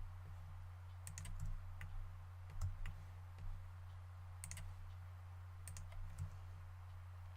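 Faint, scattered clicks of a computer mouse and keyboard, about a dozen, over a steady low electrical hum.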